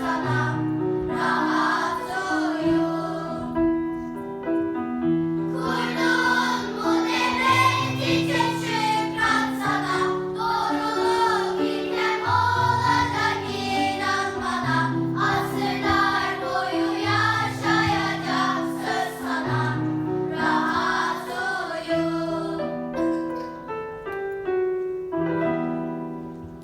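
A choir of voices, children's voices among them, singing a song over piano and a steady bass line, fading out near the end.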